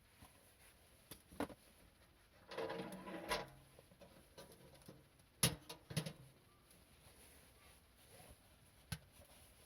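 Objects being handled: a few sharp knocks and clicks, with a brief rustling scrape about three seconds in. The loudest knock comes about halfway through, with a second one just after it.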